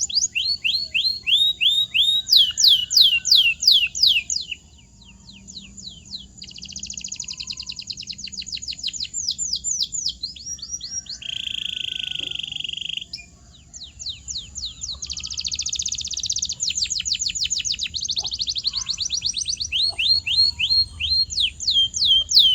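Domestic canary singing: fast trills of repeated falling notes strung into runs, easing off briefly about five seconds in, with a steady buzzy note held for a couple of seconds near the middle.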